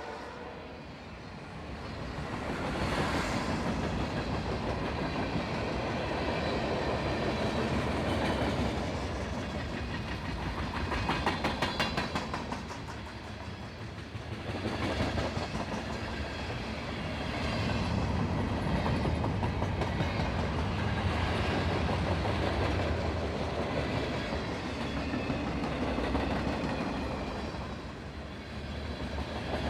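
CSX freight train rolling past: steady rumble of the locomotives and freight cars, swelling and dipping in loudness. Wheels click evenly over the rail joints for a few seconds near the middle.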